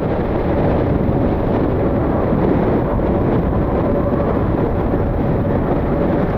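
Strong wind buffeting the microphone as a steady rumbling noise, with a faint steady whine joining about two seconds in.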